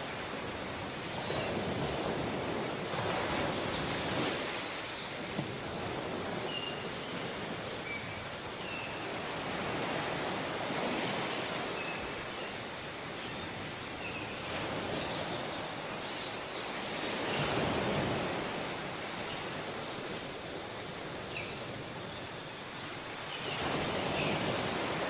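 Surf washing onto a tropical beach, the wash swelling and falling every several seconds, with faint short high chirps scattered over it.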